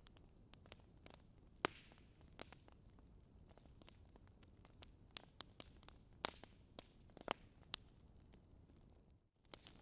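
Wood fire in a fireplace crackling faintly, with sparse sharp pops over a light steady hiss; a few pops stand out louder. The sound drops away for a moment near the end.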